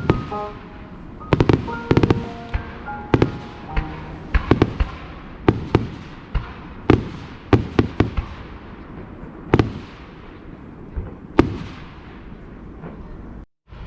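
Fireworks shells bursting overhead: an irregular series of loud bangs, each trailing off in a rumbling echo.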